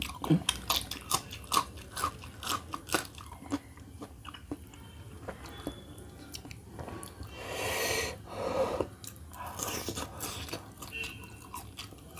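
Close-up chewing and biting of roast chicken and raw green chillies, with many short crisp mouth clicks and crunches. About eight seconds in comes a longer hissing sound, a little over a second long.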